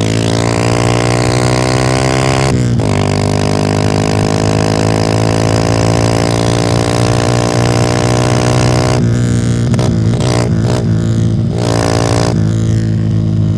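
Kawasaki KLX150 single-cylinder four-stroke motorcycle under throttle, picked up close to its exhaust. The exhaust note climbs, breaks off briefly about two and a half seconds in, then runs steadily. Between about nine and twelve seconds it drops out and returns several times as the throttle is closed and reopened.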